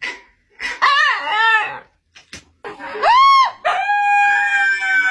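A dog howling and yowling as if answering back. It gives a few short bending yowls about a second in, then an arched one, then one long howl held from near the middle that slowly sinks in pitch.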